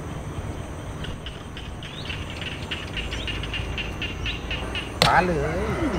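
Small birds chirping in rapid, repeated short notes over a low steady outdoor rumble. About five seconds in, a sudden loud knock and a person's voice begin.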